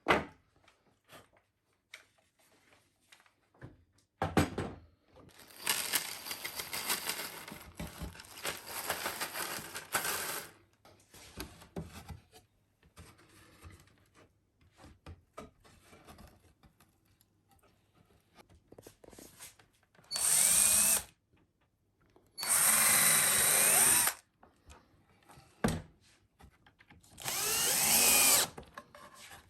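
Electric drill run in three short bursts in the second half, each a steady whine that starts and stops sharply. Before that come wood-on-wood knocks and a few seconds of scraping and handling noise.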